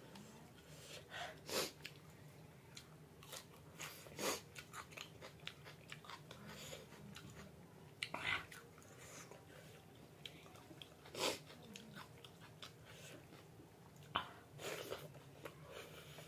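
A person chewing a meal of rice and lentils (dal bhat) close to the microphone, with soft mouth smacks and a few louder bites scattered through.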